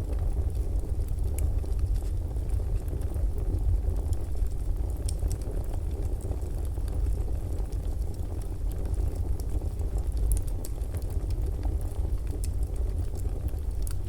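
Fireplace fire burning: a steady low rumble of flames with scattered small crackles and pops.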